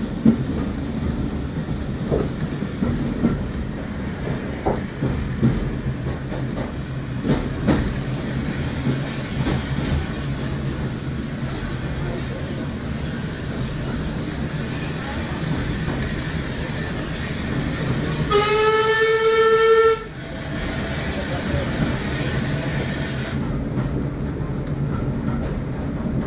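A heritage railway train running, heard from inside a carriage: a steady rumble of wheels on track with clicks over the rail joints. About eighteen seconds in, the train sounds one blast of nearly two seconds, a clear high tone that rises slightly as it starts and is the loudest thing heard.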